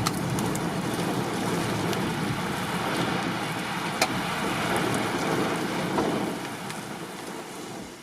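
Heavy rain during a thunderstorm, a steady hiss with scattered sharp drop clicks, fading away over the last couple of seconds.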